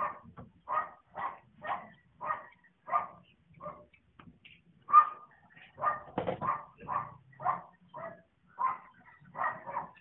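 A dog barking over and over, about two barks a second, with a short pause partway through and the loudest bark about five seconds in.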